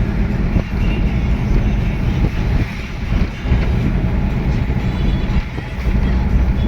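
Truck running along the road: a steady low engine rumble with road noise.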